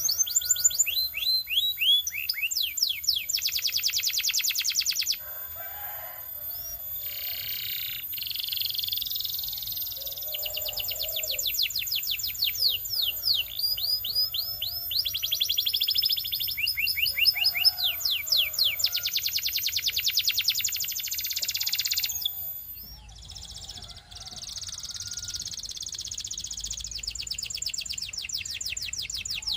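Belgian canary singing a long, continuous song of rapid trills and rolls, each run of fast repeated notes changing into the next, with a brief lull about two-thirds of the way through before it sings on.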